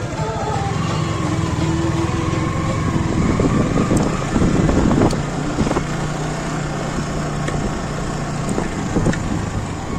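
Motorcycle engine running steadily, with a few knocks about four to five seconds in.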